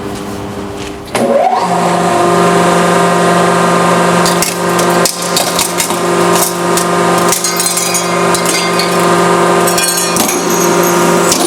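Hydraulic press pump motor spinning up with a rising whine about a second in, then running with a steady hum. Sharp cracks come now and then as the aluminium geyser coffee maker gives way under the ram.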